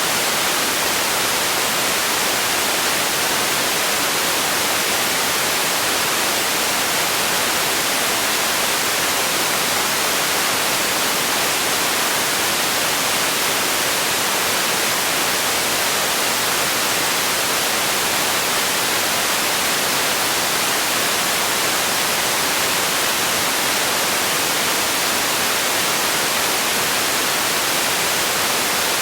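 Steady, unchanging white-noise hiss, brightest in the treble and thinner in the bass.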